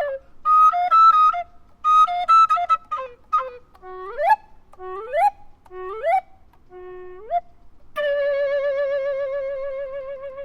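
Solo recorder imitating birdsong: quick chirping note figures, then four swoops sliding up from a low note, then a long held note with a fast warble that fades out near the end.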